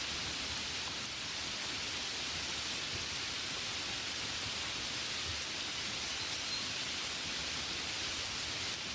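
Steady gentle rain: an even hiss with no single drops standing out.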